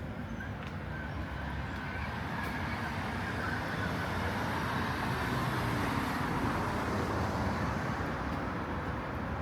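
Street traffic: a vehicle rumbling past, its noise swelling to a peak past the middle and easing off slightly near the end.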